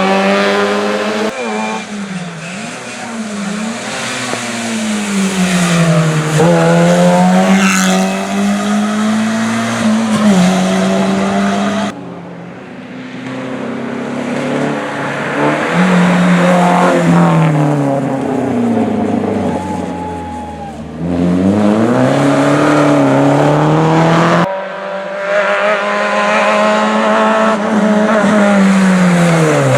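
Rally cars' engines at full throttle, their pitch climbing and dropping through gear changes and lifts as the cars pass. Several passes are cut together, with abrupt changes about 12 s and 24 s in.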